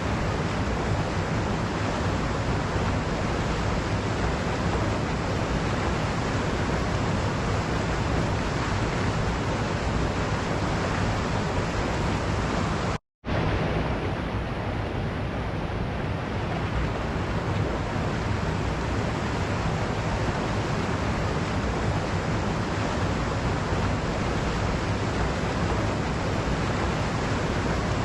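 Waterfall water falling and rushing in a steady, even roar of noise. It cuts out to silence for a split second about halfway through, then resumes.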